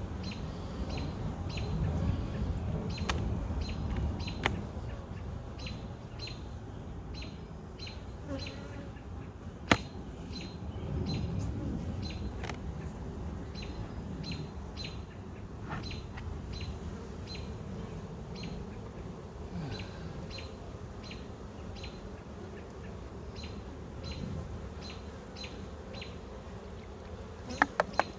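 Honey bees buzzing around an open hive, with a bird giving a short chirp over and over, about twice a second, through most of it. A few sharp clicks cut in, the loudest about ten seconds in.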